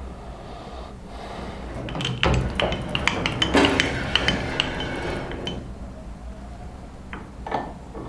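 Steel workpieces and tools knocking and clinking together in a cluster of sharp strikes, some with a short bright metallic ring, then two more knocks near the end, over a steady low hum.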